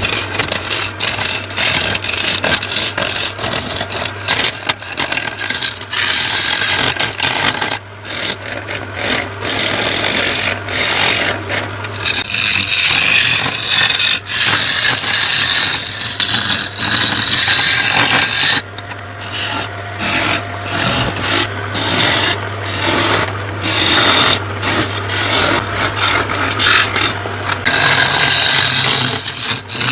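A tool filing and rasping against bamboo root wood in irregular strokes as the root is shaped into a glass, over a steady low hum.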